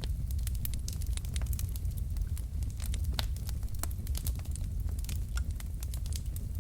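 Log fire burning in a fireplace: a steady low rumble of flame under frequent, irregular sharp crackles and pops from the burning wood.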